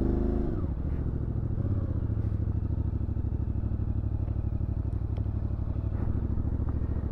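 CFMoto 450MT parallel-twin motorcycle engine being ridden: its pitch drops in the first second as the revs fall, then it runs steadily at low revs with an even pulsing beat.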